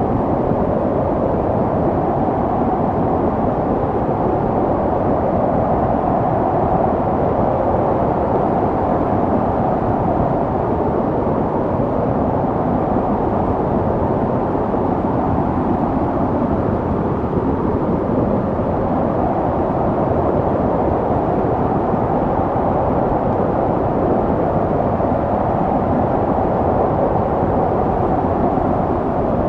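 Snowstorm wind: a steady low rushing with a faint howl that slowly swells and fades over many seconds.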